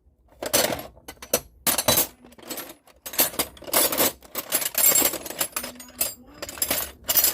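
Metal sockets and hand tools clinking and clattering in quick, uneven bursts as someone rummages through a tool tray for an 18 mm socket.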